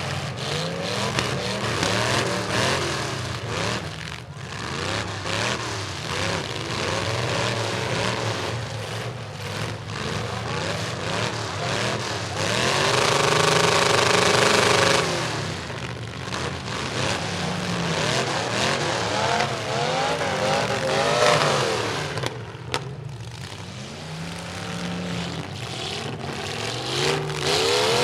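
Several demolition derby trucks' engines revving up and down, with one held at high revs for a couple of seconds near the middle, and a few sharp knocks from hits.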